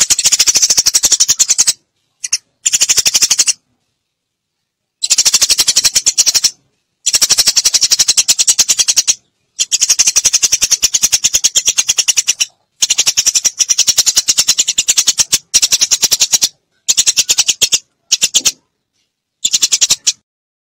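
Eurasian tree sparrows chirping in fast runs of sharp, high chips, played as a bird-lure recording. The runs come in bouts of one to two seconds, each cut off abruptly by a gap of dead silence.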